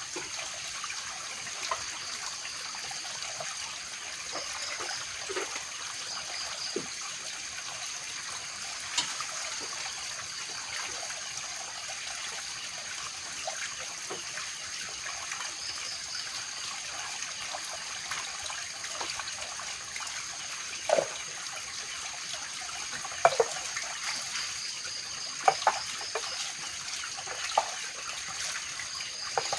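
Water trickling steadily under a constant high-pitched whine, with scattered sharp clicks and taps that come more often in the second half.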